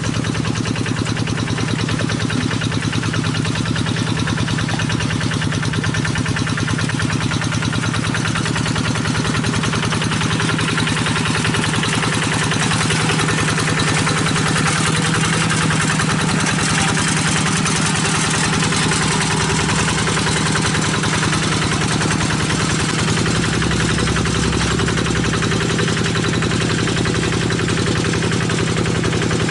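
Single-cylinder diesel engine of a hand (two-wheel) paddy-field tractor running steadily after a hand-crank start, with a fast even firing pulse.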